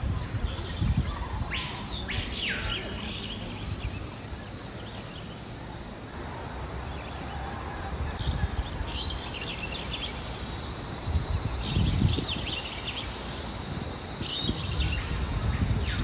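Birds calling in rainforest, several sweeping calls that rise and fall, over a steady low rumble. From about ten seconds in, a thin high steady drone, typical of an insect, joins.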